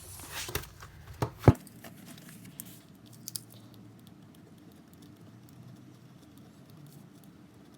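Desk handling sounds of paper and pen work: a few knocks, the loudest about a second and a half in, then faint steady room noise with scattered light ticks.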